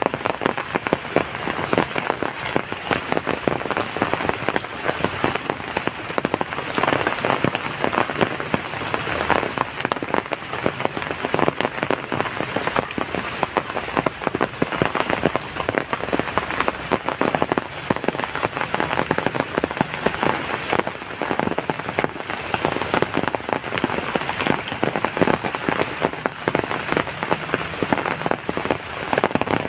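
Heavy rain falling steadily, a dense, even hiss made of countless drop hits on a surface.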